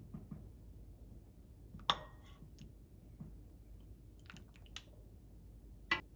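Light clicks and clinks of utensils against dishes, with soft eating sounds between them; two sharper clinks stand out, about two seconds in and near the end.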